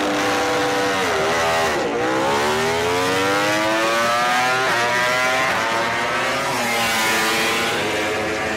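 MotoGP racing motorcycle engine at full race pace. Its note holds, drops briefly about a second in as the rider comes off the throttle, then climbs in pitch again and again through the upshifts.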